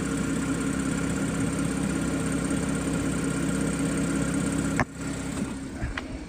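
Audi A6 V6 engine idling steadily, with the faint tick that the owner hears and wonders is a stretched timing chain. About five seconds in there is a sharp click, the running sound drops, and a couple of lighter clicks follow.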